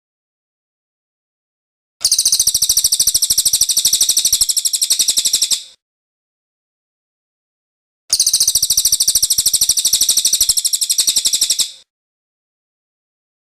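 Cililin bird singing its rolling trill: two long runs of very fast, evenly repeated high notes, each about three and a half seconds long, separated by silence.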